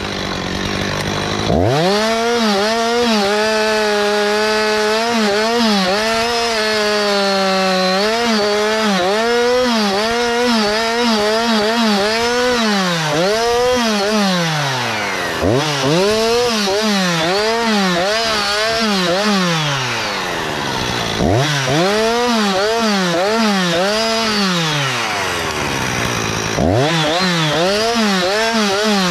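Gasoline chainsaw cutting cedar wood. It revs up about two seconds in and runs at high throttle, its pitch dipping and recovering again and again as the chain bogs in the cut; several times it drops briefly toward idle before revving up again.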